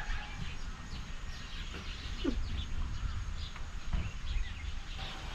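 Small birds chirping repeatedly over a low rumble, with a single thump about four seconds in.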